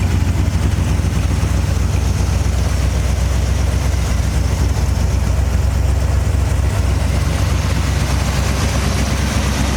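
1968 Corvette's 327 V8 idling steadily and evenly, its sound strongest in the low end.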